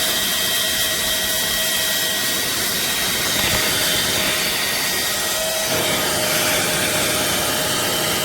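Cordless handheld mini vacuum running steadily: a small motor's whine over a rush of air, its tone shifting slightly about six seconds in.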